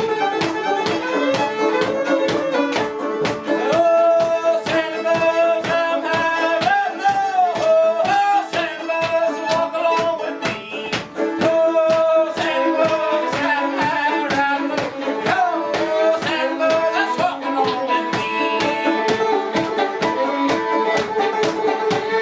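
Live fiddle tune with sliding notes, played over a steady rhythmic beat of sharp strokes.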